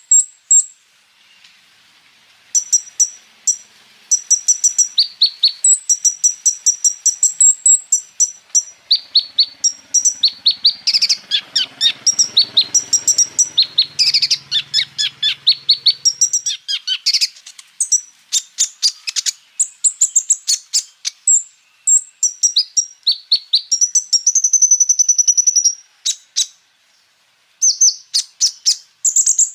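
Kolibri ninja (konin) singing a fast, high-pitched song of rapid chirps and trills strung with mimicked phrases. There is a short pause about three-quarters of the way in.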